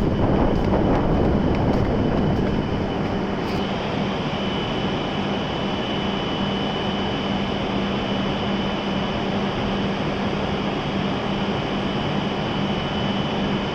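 Steady hum of a stopped E7 series Shinkansen train's onboard equipment, with a thin high whine over it; a little louder and rougher for the first few seconds.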